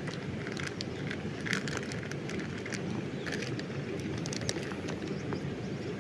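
Steady rushing of river water, with scattered light clicks and ticks over it.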